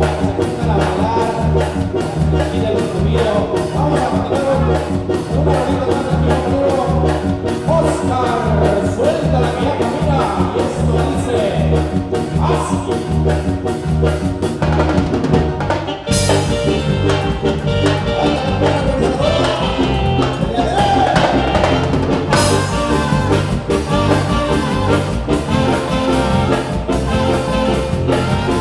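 Latin dance band playing, with a steady drum-kit and bass beat under a wavering melody line. Midway through, cymbals open up for several seconds before dropping back.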